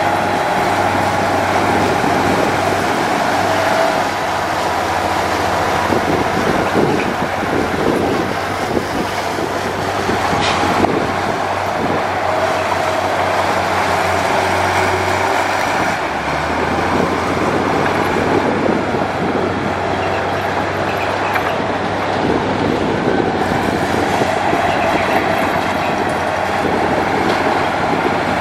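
Komatsu D58E crawler bulldozer working, its diesel engine running steadily under load with the steel tracks clanking continuously; the engine note drops lower about halfway through.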